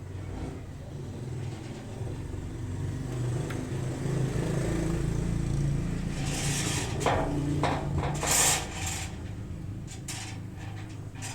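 A motorcycle engine running steadily, a little louder for a few seconds in the middle. Between about six and nine seconds in there are several short bursts of hissing noise, the loudest near the end of that stretch.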